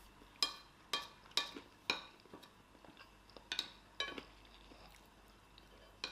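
Cutlery clinking against a plate during fast eating: about six sharp, ringing clinks, four in quick succession in the first two seconds and two more around three and a half to four seconds in.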